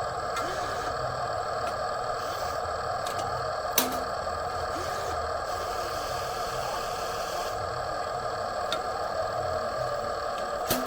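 A steady mechanical whirring hum with two sharp clicks, one about four seconds in and one near the end.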